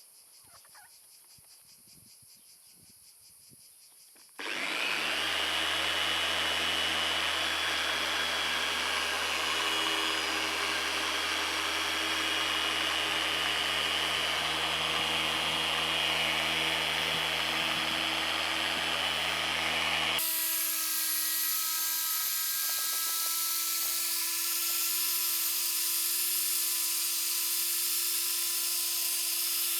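Kestrel DAS6 Pro dual action polisher starting up about four seconds in and running steadily with a motor hum and whine. About twenty seconds in the sound changes suddenly: the low hum drops out, leaving a thinner steady whine.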